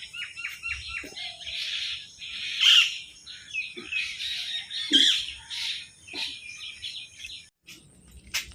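Birds chirping and calling, with many short, quick notes, a few of them louder about three and five seconds in. The chorus stops abruptly near the end, and a single sharp click follows.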